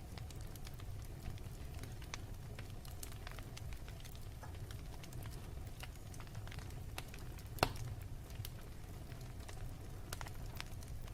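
Wood fire burning, a steady low rumble with scattered sharp crackles and one louder pop about two-thirds of the way through.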